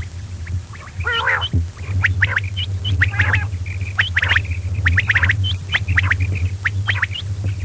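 Quail calling: many sharp chirps, often in quick runs, over a steady low hum.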